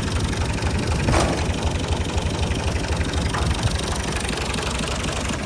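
Tractor diesel engine running steadily at idle, with a short sharp clack about a second in and a fainter one past the three-second mark.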